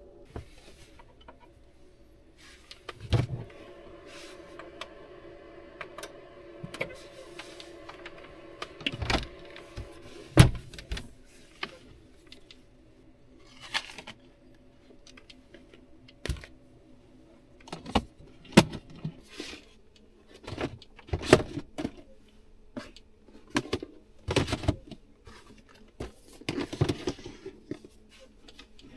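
Irregular clinks, taps and knocks of kitchen utensils and dishes being handled while food is prepared. A faint steady hum runs under the first ten seconds or so.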